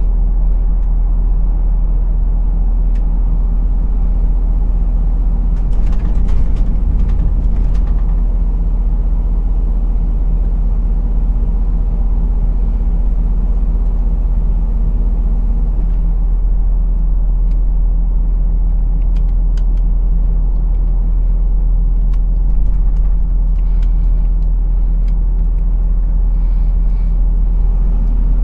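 Truck engine running steadily, a constant low drone with road noise, heard from inside the cab, with scattered light clicks and rattles.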